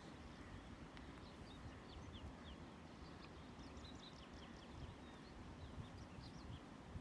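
Faint chirping of small birds: many short, high, quick notes from about two seconds in, over a low, steady rumble.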